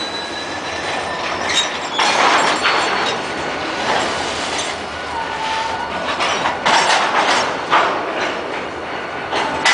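Freight cars rolling on steel rails, wheels clattering in repeated bursts over rail joints, with a brief high wheel squeal about five seconds in.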